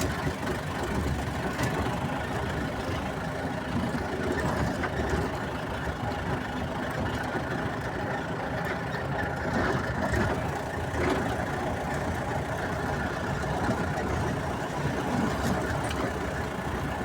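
Steady rumble of a motor vehicle's engine and road noise.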